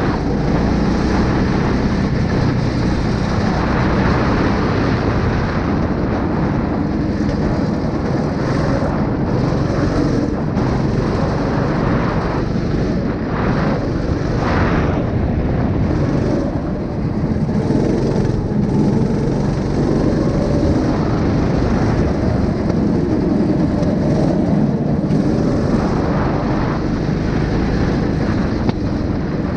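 A 9 hp engine running steadily at a loud, constant level, with a low, even hum under a broad mechanical noise.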